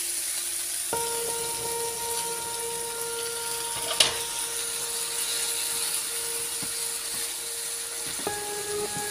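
Sofrito sizzling in a frying pan while freshly added grated tomato is stirred with a spatula, with one sharp knock about four seconds in. A steady electronic whine from the induction hob runs underneath; it starts about a second in and changes pitch near the end.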